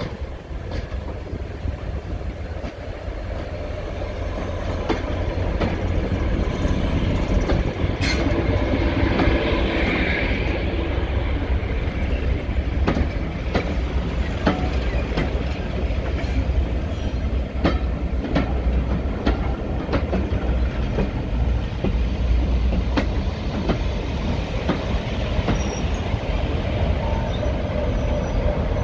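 Diesel-hauled passenger train of coaches rolling slowly past, wheels clicking over the rail joints over a low locomotive engine rumble. It grows louder over the first several seconds as the locomotive comes by.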